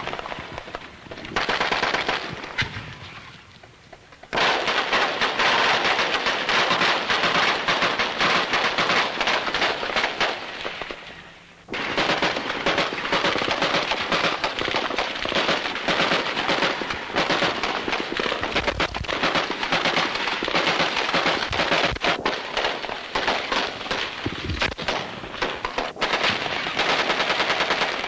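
Heavy automatic small-arms fire: dense, rapid rifle and machine-gun shots with two short lulls, after each of which the firing comes back at full strength.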